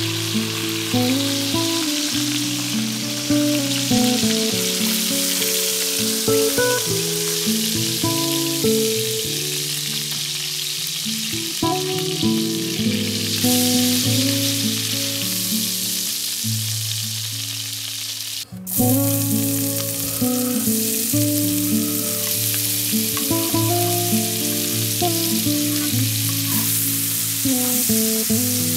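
Chicken legs sizzling in hot fat in a frying pan, with background music playing over it. The sizzle breaks off briefly about two-thirds through and resumes with chopped red onion frying in the pan.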